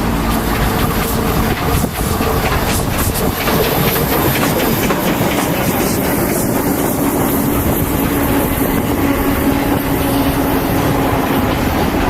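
A train hauled by the steam locomotive DT668 running past, its wheels clicking over the rail joints, with wind buffeting the microphone.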